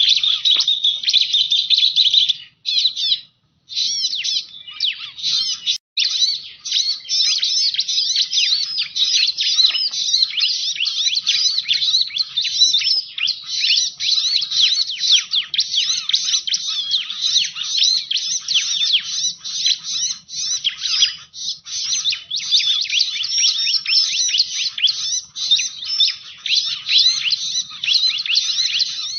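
Bar-winged prinia (ciblek) giving a rapid, unbroken run of high chirps and twitters, used as a lure call, with brief pauses about three and six seconds in.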